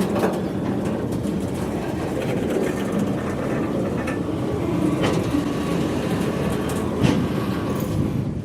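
Train rolling by with a steady rumble of wheels on rail and a few sharp clacks, the clearest about five and seven seconds in.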